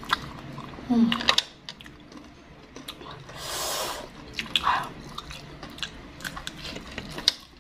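Close-mic eating sounds: biting and chewing skewered tapioca-ball cilok and wonton-wrapped sausage in sauce, with scattered wet mouth clicks. A long breath is blown out through pursed lips about three seconds in.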